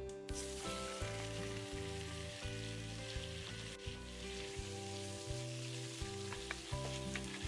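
Food sizzling as it fries in a hot pan, starting just after the opening, with a few light clicks later on, over background music.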